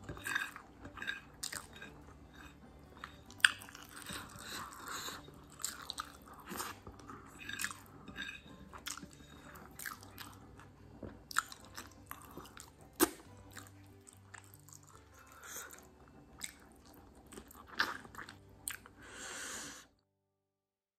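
A person chewing a mouthful of rice and chicken curry eaten by hand, with wet mouth sounds and sharp, irregular clicks. The sound stops abruptly near the end.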